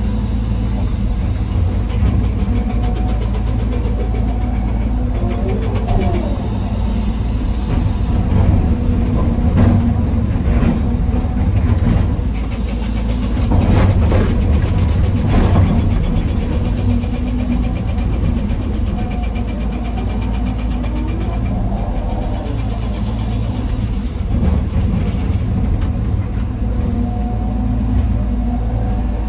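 Heavy diesel engine of an excavator running steadily while it loads andesite rock into a dump truck. Between about ten and sixteen seconds in there is a run of sharp knocks and clanks from rock and bucket striking the truck's steel bed.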